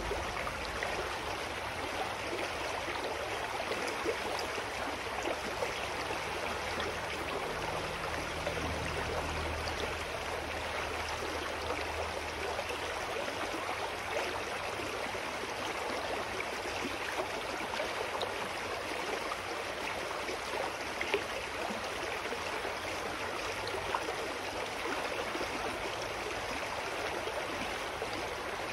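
Mountain stream flowing steadily: an even, unbroken rush of running water.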